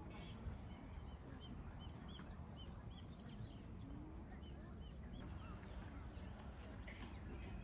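A small bird calling in a run of short, high notes, about two a second, stopping about five seconds in, over faint outdoor background noise.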